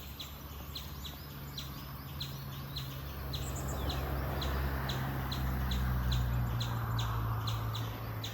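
Short high chirps repeat evenly about three times a second, from a calling bird or insect. Under them is the low hum of an engine, with its noise swelling through the middle and easing off near the end.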